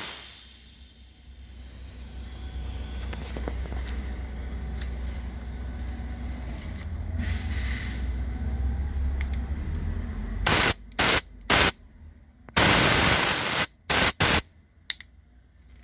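Homemade air compressor running with a low, quiet hum; about ten seconds in, a series of short hissing blasts of compressed air, one of them lasting about a second.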